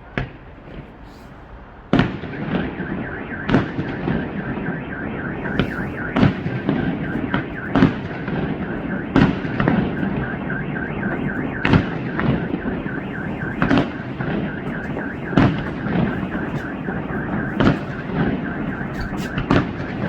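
A 2-inch, 36-shot firework cake firing: about two seconds in, a string of loud shots and bursts begins, coming every second or two over a dense crackling rumble. A steady wavering tone runs underneath.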